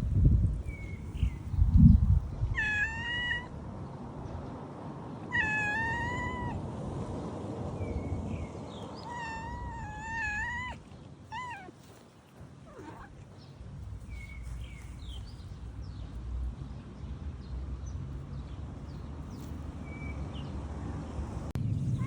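Cat meowing: three or four high-pitched, wavering mews with a few shorter chirps between them. Two low thumps near the start.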